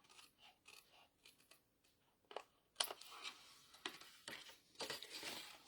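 Small paper snips cutting cardstock: faint clicks at first, then from about halfway a run of sharp snips and the short rasp of the blades through the paper.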